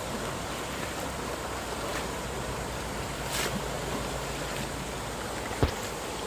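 Steady rushing of a flooded stream's water, with one sharp knock about five and a half seconds in.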